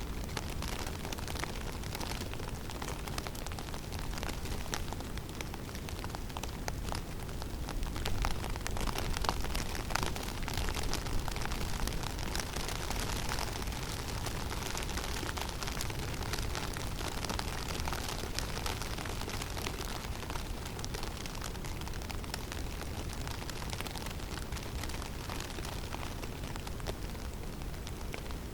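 Snowstorm in a forest: wind with a steady low rumble and a dense, fine ticking of snow striking, swelling louder in a gust about a third of the way in.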